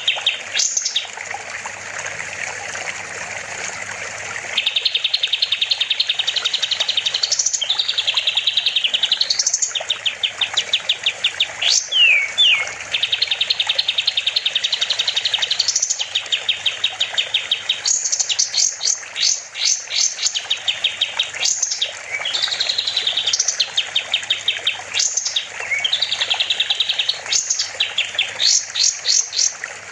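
A kapas tembak, a triller, singing vigorously. It delivers long, fast rattling trills broken by sharp rising whistled sweeps, phrase after phrase without pause.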